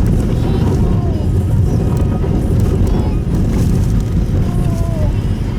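Steady low road and tyre rumble inside a Subaru Impreza Sport's cabin while driving, with faint wavering voice-like tones above it.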